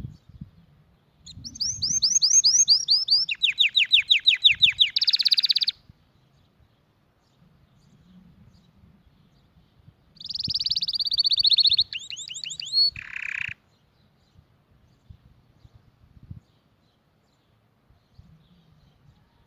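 Domestic canary singing: two phrases of fast trills, each a few seconds long and about five seconds apart, the notes repeated rapidly and stepping between pitches; the second phrase ends in a short, lower buzzy note.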